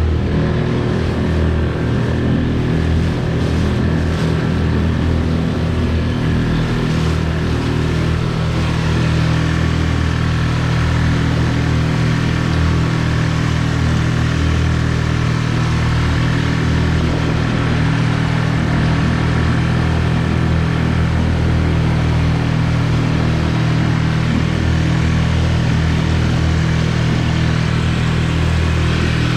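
Tohatsu 6 hp outboard motor running steadily at an even throttle, pushing a kayak/skiff along.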